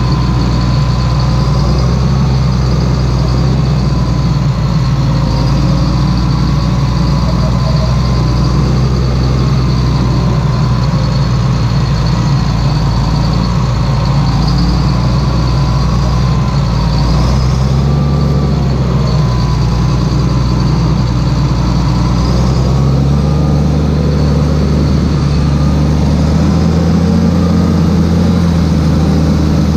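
Claas Xerion 3800 tractor's diesel engine running steadily, with a faint whine over the engine note. A bit past two-thirds of the way through, the engine note shifts slightly higher.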